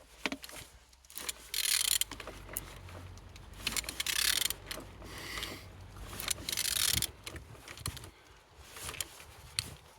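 A car engine being turned over by hand at the crankshaft, with several strokes of clicking, scraping mechanical noise. The engine turns freely.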